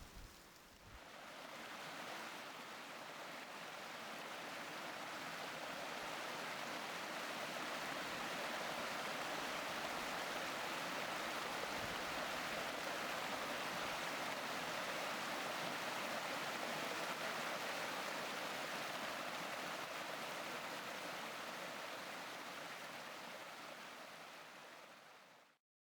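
Steady rushing water, swelling in over the first few seconds, then holding even until it cuts off abruptly just before the end.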